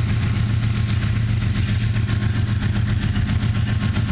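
Diesel locomotive of a freight train running close by: a loud, steady low engine drone.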